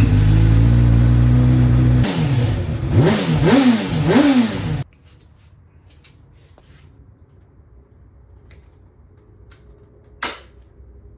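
Honda CBR600RR inline-four with a slip-on exhaust and its baffle removed, running at a steady fast idle just after start-up, then blipped three times, rising and falling in pitch, before it stops abruptly about five seconds in. After that it is quiet apart from a few faint ticks and one sharp click near the end.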